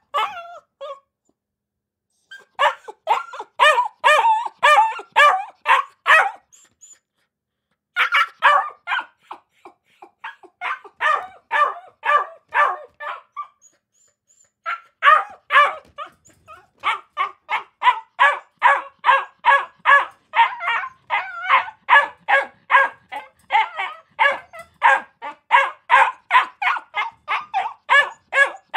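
Dog barking in rapid strings of about four barks a second, broken by two short pauses, then running on without a break through the second half.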